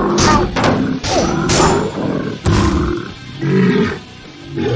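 Cartoon sound-effect roars and growls from a big gorilla, several in a row with sharp hits between them, over background music.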